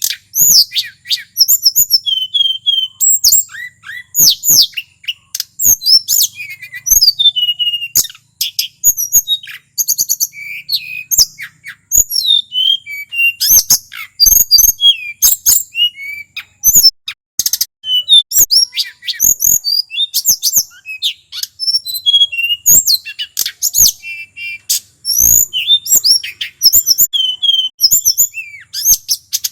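Male tledekan gunung (hill blue flycatcher) singing without pause: a rapid, varied run of high clear whistles, slurred sweeps and short trills, some notes sharp and clicking.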